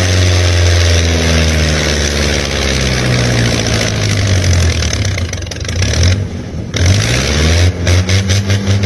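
Truck engine running under load, its revs easing down over the first few seconds and climbing again near the end, with a steady hiss over it that briefly drops out about two-thirds through and turns choppy toward the end.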